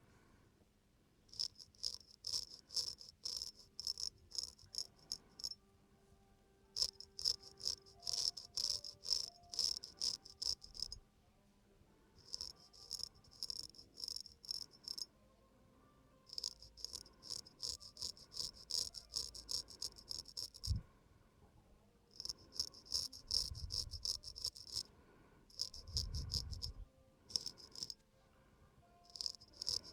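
Razor blade scraping over a man's stubbled face in quick short strokes, several a second, in runs of a few seconds with short pauses between: a second pass taking off the remaining stubble.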